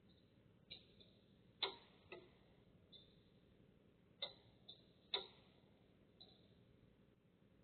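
Quiet background broken by about eight sharp, irregular clicks and ticks, spaced unevenly half a second to a second apart, with the loudest about a second and a half in and again about five seconds in. The uploader takes them for noises made by orbs.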